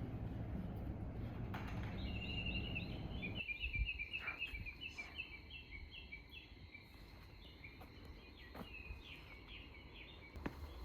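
A bird singing a long run of quick, high chirps, about three a second, over a faint steady high tone. A low rumbling background drops away suddenly about three seconds in.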